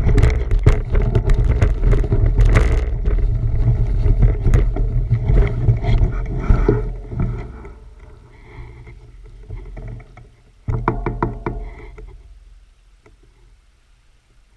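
Wind buffeting the microphone with a low rumble and a string of rattling clicks and knocks, dying away after about seven seconds; a short burst of rumble and rapid rattling returns near eleven seconds, then fades.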